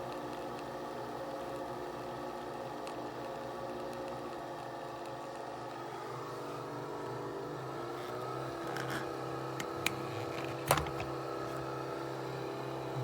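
Small kitchen appliance motor running with a steady hum of several tones; the pitch shifts about halfway through, and a few sharp clicks come near the end.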